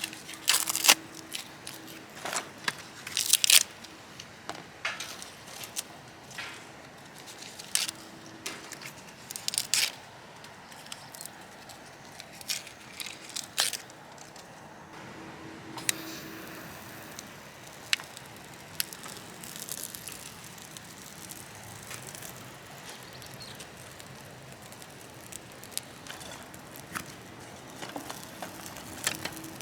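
Irregular crackles, rustles and sharp clicks of things being handled at close range. They are frequent for the first half and grow sparser after about fifteen seconds.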